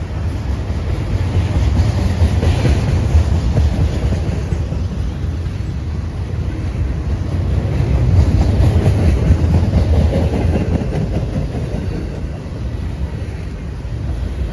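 Train rolling past close by: a continuous rumble of cars with the clickety-clack of wheels over rail joints, swelling twice.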